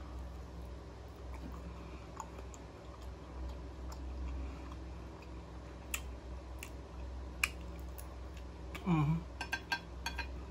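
Close-miked chewing of an air-fried mackerel croquette, with sharp mouth clicks and lip smacks, over a steady low room hum. About nine seconds in comes a brief hummed 'mm' from the voice, followed by a quick run of lip smacks.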